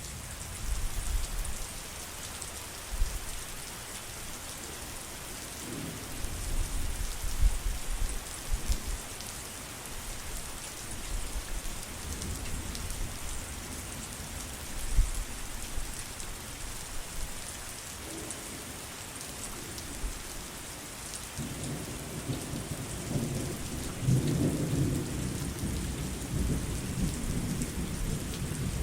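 Steady heavy rain with rolls of thunder: low rumbles come and go through the first two-thirds, then a long, louder roll sets in about 21 seconds in and carries on.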